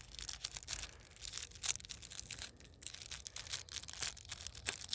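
Paper and cellophane wrapping of a pack of firecrackers crinkling and rustling in the hands, in irregular short crackles.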